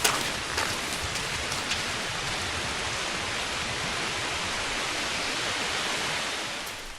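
Heavy rain falling steadily, with a few sharp drips in the first two seconds; it fades out near the end.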